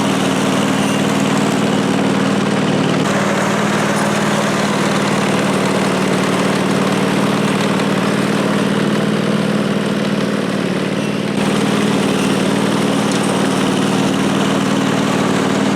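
Engine of a restored Snapper rear-engine riding lawnmower running steadily under way, with a slight change in its note a few seconds in and again later on. It runs without faltering.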